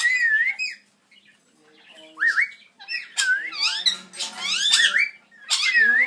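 Pet parrots whistling and squawking: a string of wavering, up-and-down whistled calls with a denser, harsher burst of chatter around the middle.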